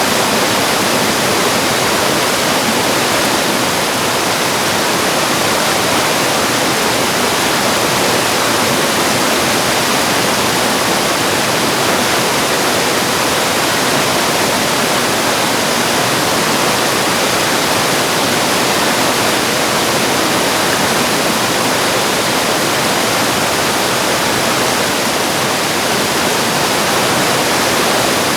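Mountain valley stream rushing, a steady unbroken wash of water noise with no change in level.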